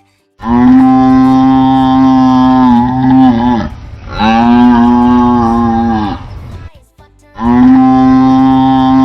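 Cow mooing: three long, steady moos in a row, each dropping in pitch as it ends.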